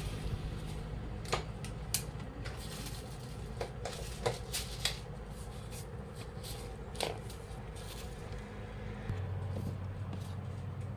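Scattered sharp clicks and knocks, as of things being handled, over a low steady hum that deepens about nine seconds in.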